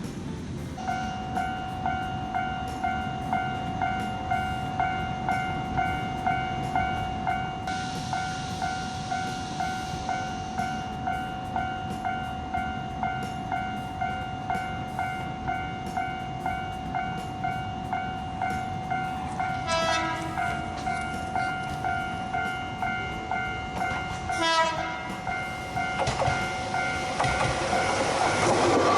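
Railway level-crossing warning bell ringing steadily at about two strokes a second, broken by two short horn toots about two-thirds of the way through. Near the end a Gakunan Railway train approaches and its running noise grows louder.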